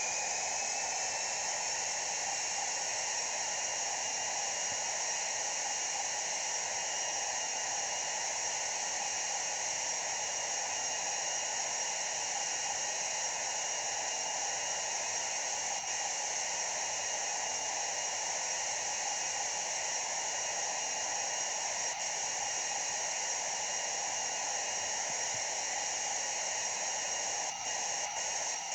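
Boeing 737-800's CFM56-7B turbofan engines at takeoff thrust: a steady rushing noise with a high fan whine on two pitches. The whine finishes rising and settles about a second in as the engines reach full power.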